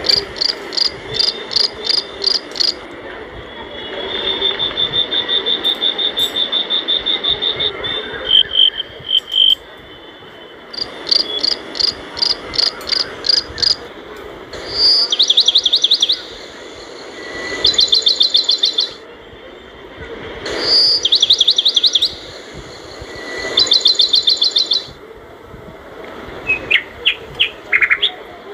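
A bird singing: a run of rapid, high trilled phrases a couple of seconds each, separated by short pauses, the phrases changing in form from one to the next.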